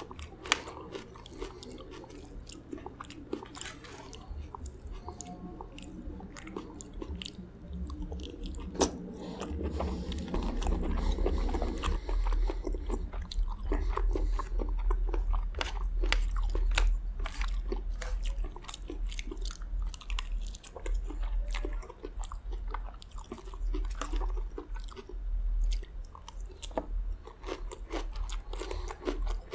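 Close-miked chewing and crunching of chicken gizzard curry with rice and shredded lettuce, with short wet clicks of the mouth. A few sharp clicks come from the spoon against the steel plate. The chewing gets fuller and louder about a third of the way in.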